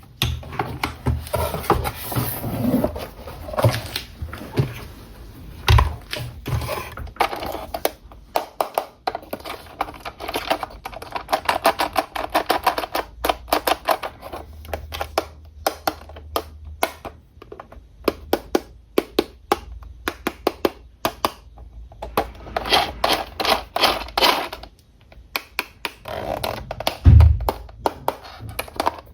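Runs of rapid clicks and taps from unboxing and handling a 1:20 scale RC toy car and its packaging, with a heavier thump about six seconds in and another near the end.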